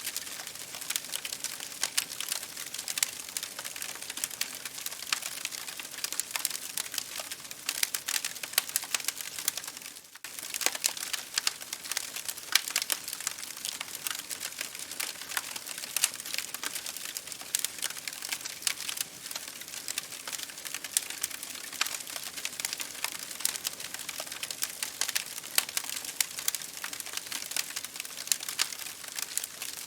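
Campfire crackling: a dense, irregular stream of sharp pops and snaps over a soft hiss, with a brief dip in level about ten seconds in.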